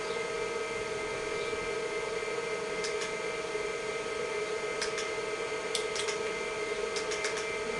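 Steady hum and whine of an IBM PC XT (5160) running, its cooling fan and spinning MFM hard drive, with a few sharp clicks from its IBM keyboard. One click comes about three seconds in and a quick run of clicks follows in the second half.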